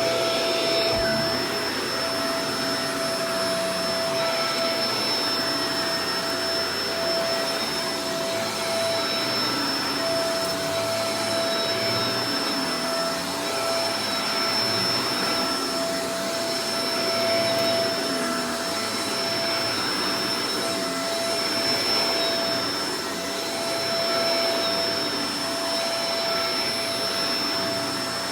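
Shark Professional Powered Lift-Away DLX (NV586) upright vacuum cleaner running steadily: a constant rush of air with a steady motor tone on top, swelling and easing slightly in loudness.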